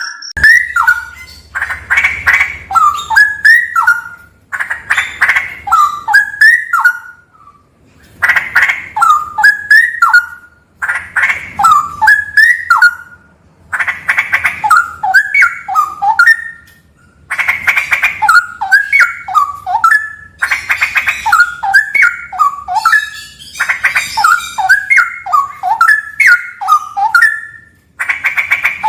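Straw-headed bulbul (cucak rawa) singing loudly. A rich, bubbling warbled phrase of two to three seconds, each opening with a quick chatter, is repeated about nine times with short pauses between.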